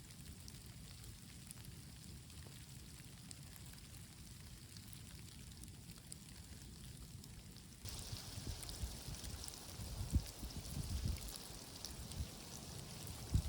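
Faint, steady outdoor noise with a low rumble. About eight seconds in, after a cut, a brighter hiss starts, with soft low gusts.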